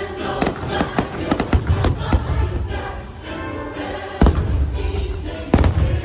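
Fireworks shells bursting over loud orchestral show music: a quick run of sharp bangs in the first two seconds, then two heavy booms about four and five and a half seconds in.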